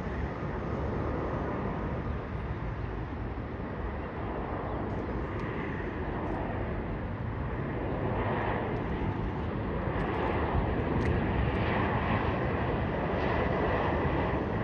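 Jet engines of a Boeing 737-800 airliner, a steady rushing jet noise with a whine on top, slowly growing louder as the plane comes closer, the sound wavering and sweeping in tone in the second half.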